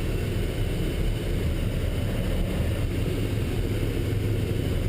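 Military convoy truck driving, its engine and road noise a steady low rumble.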